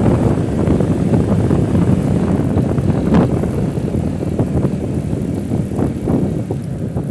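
Steady low rumble of a vehicle on the move, road and wind noise, with a few brief knocks about three and six seconds in.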